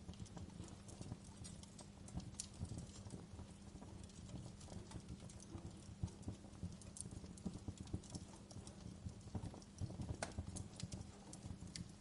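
Wood fire crackling, with irregular sharp pops and snaps over a low, steady drone.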